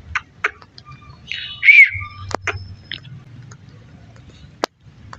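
Indian ringneck parakeet calling: a scatter of short chirps and clicks, with one louder squawk a little under two seconds in.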